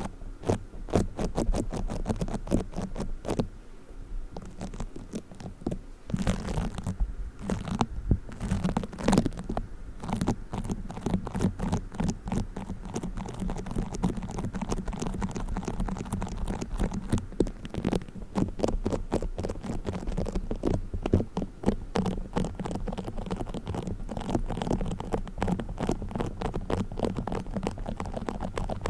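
Play foam being handled close to the microphone: a dense run of fast, sticky crackles and pops that eases off briefly a few seconds in.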